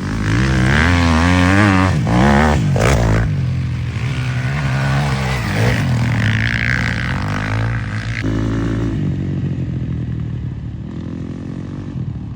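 Motocross dirt bike engine revving, its pitch rising and falling quickly for the first few seconds, then running at steadier speeds.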